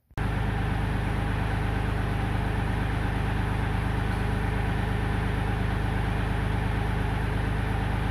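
Kioti compact tractor's diesel engine running steadily at a constant speed, with no change in pitch or load.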